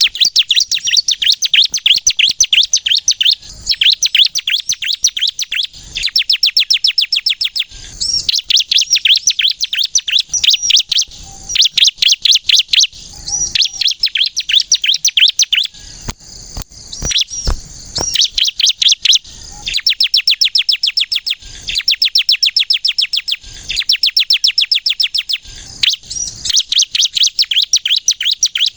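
Bar-winged prinia (ciblek) singing: fast runs of high, shrill chirps, roughly ten notes a second, each run lasting one to two seconds with short breaks between them.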